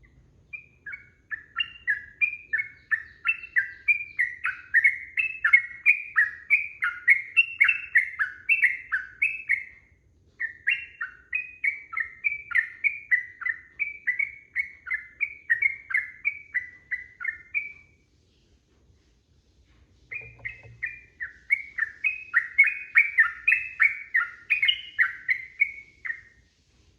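Yellow-vented bulbul singing a long, rapid, chattering song of bright repeated notes, in three runs broken by a short pause and a longer one about two-thirds of the way in.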